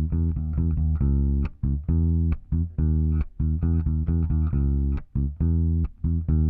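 Solo electric bass guitar track playing a rhythmic line of short, separated notes, heard through a tube opto compressor of the Teletronix LA-2A type.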